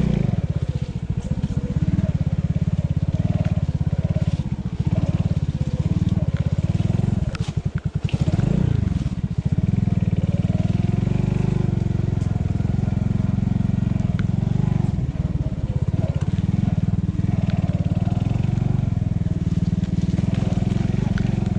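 Engine of a 125 cc enduro pit bike running steadily as it is ridden. The engine note drops briefly about eight seconds in, then picks back up.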